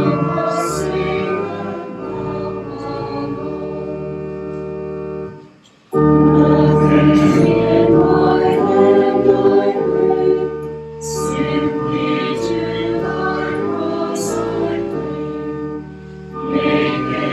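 Choir singing a hymn with keyboard accompaniment, sustained chords. The music drops almost away about five and a half seconds in, then comes back louder on the next phrase.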